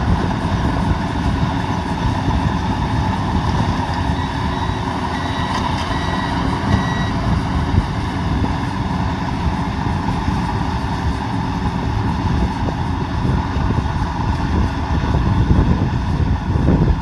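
Combine harvester running steadily in a rice field, its engine and threshing drum making a continuous heavy drone. A few short high beeps from the machine's warning beeper sound about five to seven seconds in.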